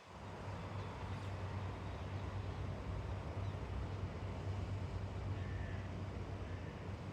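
A steady low rumble sets in suddenly at the start, with a few faint bird calls above it, two short ones a little past the middle.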